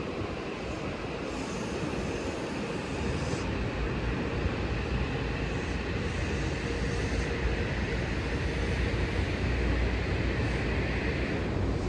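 Train running past at a station: a steady rumble whose low end grows louder through the second half.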